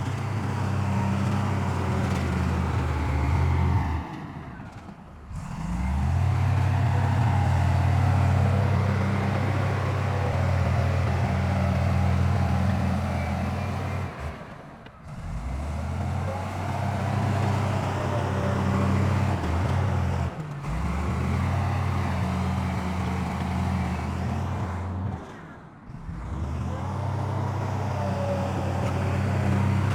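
Heavy diesel engines of earthmoving machines such as a bulldozer or dump truck, running steadily with a low drone. It breaks off abruptly four times and resumes with a slightly different pitch pattern.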